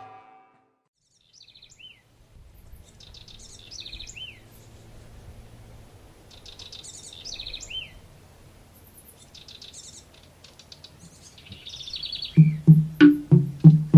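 Wild birds singing, short repeated phrases of high chirps with falling notes, over a faint low rumble of outdoor background. Near the end a low pitched instrument comes in loudly with evenly repeated notes, about three a second.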